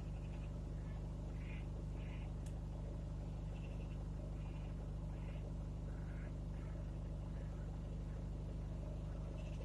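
Car engine idling steadily, a low even hum heard from inside the car's cabin.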